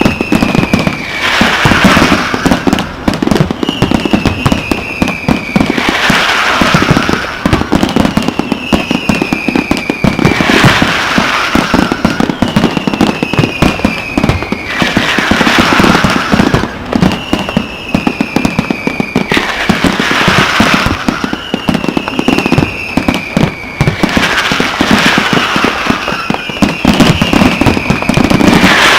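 Fireworks display: a whistle falling slowly in pitch comes about every four seconds, each ending in a burst, over continuous dense crackling.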